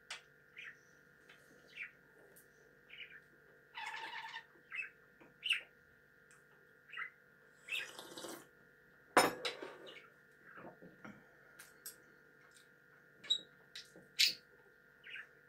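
A caged pet bird chirping in short, scattered calls, with a longer squawk about four seconds in. A sharp knock about nine seconds in is the loudest sound.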